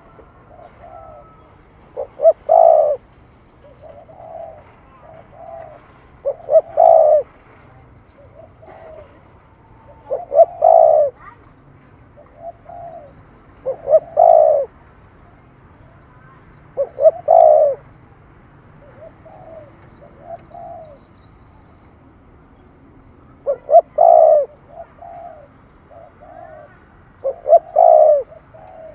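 Spotted dove (cu gáy) cooing in its rapid 'thúc gù' style: a loud phrase of a few quick notes ending in a longer coo, repeated about every three to four seconds, with softer coos in between and a longer pause past the middle.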